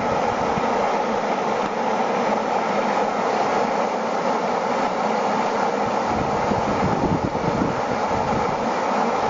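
Steady rushing noise with an uneven low rumble that grows stronger about six seconds in.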